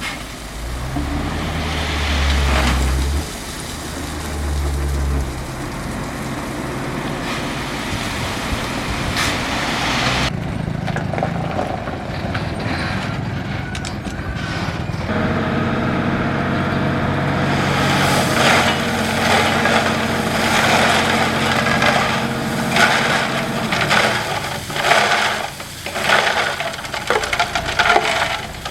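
Diesel engine of a heavy earthmoving machine working under load. In the second half, repeated crunching and knocking, typical of a blade pushing and scraping gravel.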